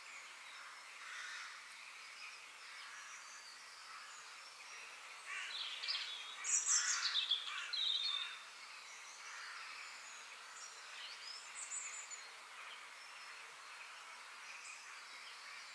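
Several forest birds singing and chirping over a steady background hiss, with one nearer bird singing a louder, quick series of high notes about halfway through.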